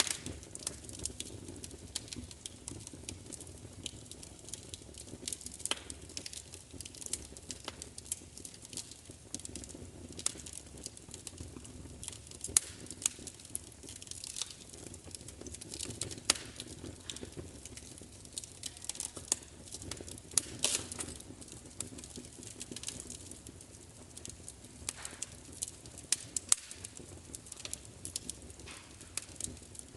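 Wood fire crackling: irregular sharp pops and snaps over a low, steady rush of the flames.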